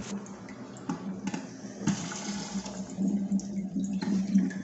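Water running in a wall-hung toilet's concealed cistern, with a steady low hum underneath and a few light knocks.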